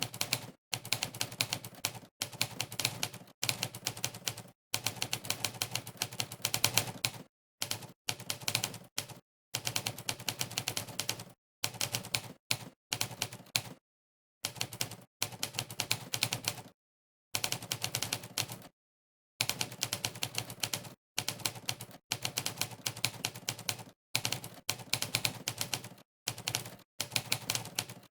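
Typewriter key-clack sound effect from a typing-test website, one sampled clack per keystroke, in fast runs of rapid clacks broken by short silent pauses.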